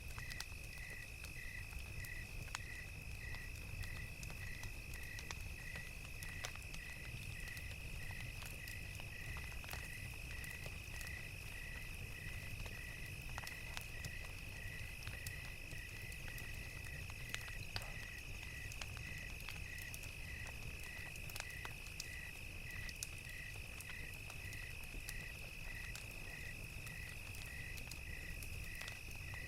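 Crickets chirping evenly, just under two chirps a second, over a steady high insect drone, with scattered sharp crackles of a wood fire and a low rumble beneath.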